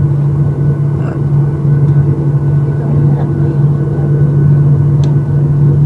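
Steady low hum of a parked Boeing 737-800's air-conditioning and ventilation heard from inside the cabin, holding one even pitch, with faint passenger voices beneath it.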